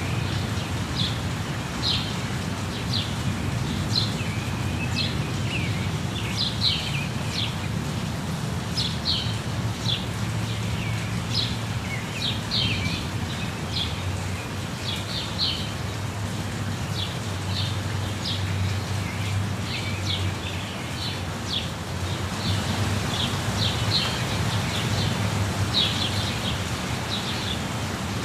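Small birds chirping in quick, repeated short calls over the steady rushing of a waterfall.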